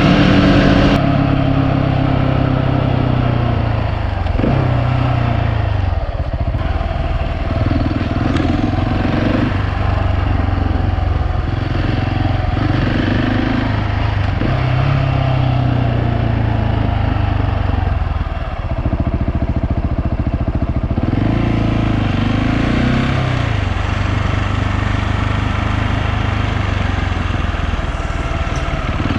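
Husqvarna 701 Supermoto's single-cylinder engine running under way, its note dropping and climbing again several times with throttle and gear changes.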